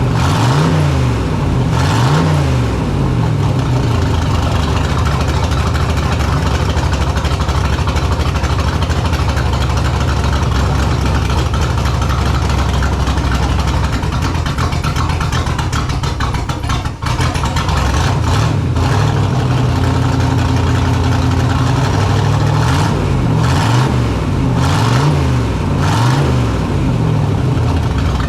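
1929 rat rod's engine, fed by Stromberg carburettors, running steadily with several throttle blips that rise and fall in pitch, a few near the start and again near the end. It is a test run after cleaning the carbs, and the back carb is no longer flooding.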